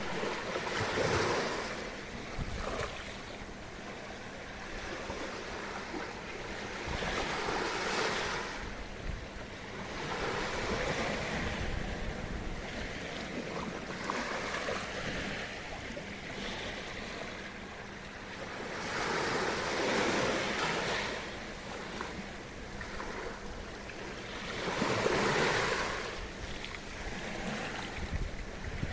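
Small waves breaking and washing up on the beach of a sheltered bay, swelling into a surge every few seconds, with wind buffeting the microphone. A faint steady hum runs underneath.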